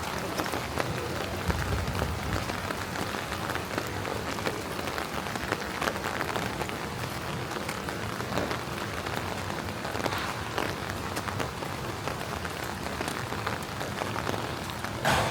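Steady rain falling on city streets, with many individual drops ticking close by. A brief louder rush comes near the end.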